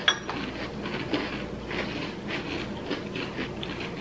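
People chewing crunchy cookies and cream cereal, with soft crunches about three times a second. A spoon clinks once on a glass bowl right at the start.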